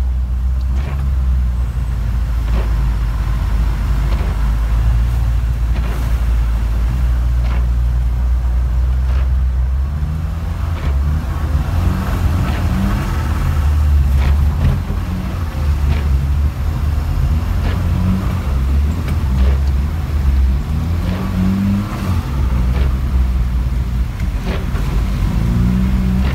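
Saab 90 Turbo's four-cylinder engine heard from inside the cabin, revving up and down as the car is driven hard on an ice track, with occasional short knocks.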